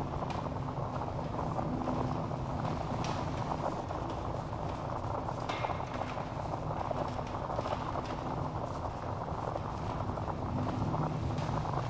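Wood fire burning in a fireplace: a steady low rushing of the flames with scattered crackles and pops from the logs, a few sharper snaps spaced a couple of seconds apart.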